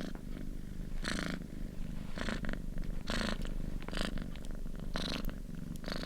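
Domestic cat purring: a steady low rumble with a louder, breathy swell about once a second.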